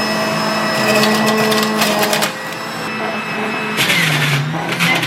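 Electric juicer motor running with a steady hum and whine, and bursts of grinding as produce is pushed through it.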